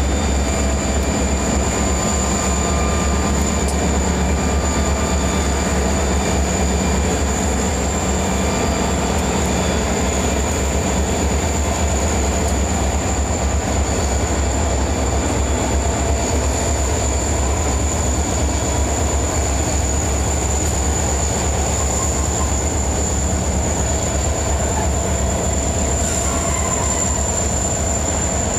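A CSX diesel-hauled freight train passing close by, loud and steady: the locomotives go by first, then boxcars roll past with a continuous deep rumble of wheels on rail. A thin, steady high-pitched whine runs over it throughout.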